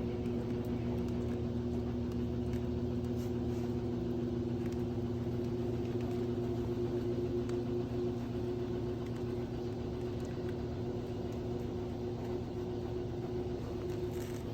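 A steady mechanical hum over a low rumble, such as an idling engine or a running motor, a little quieter from about eight seconds in.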